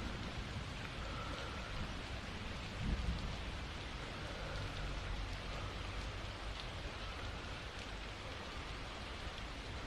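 Steady rain falling, with a brief low rumble about three seconds in.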